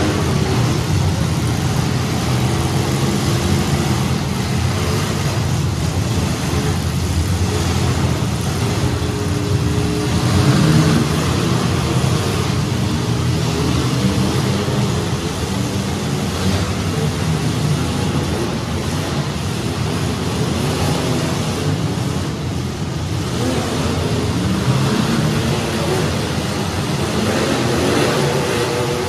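Engines of several welded compact demolition derby cars running and revving, their pitch rising and falling throughout.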